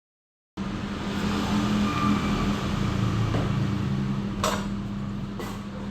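A steady, low mechanical hum, like a running motor or engine, starting about half a second in, with two sharp clicks about a second apart near the end.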